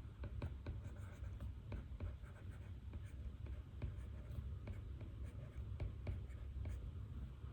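Handwriting with a pen on paper: irregular light taps and short scratches, over a steady low hum.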